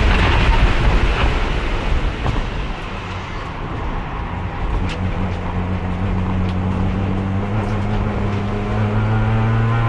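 Race car engine heard onboard: the engine note drops away as the car comes off the throttle, then from about halfway through it pulls back up from low revs, its pitch climbing slowly and steadily. The slow climb is the car accelerating in fourth gear only, with no third gear because the transmission is failing.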